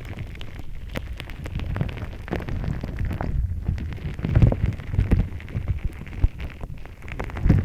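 Gritty shaved-ice slime being squished and worked by hand close to a binaural microphone: dense, irregular crackling and popping with soft low thuds, loudest about four seconds in and near the end.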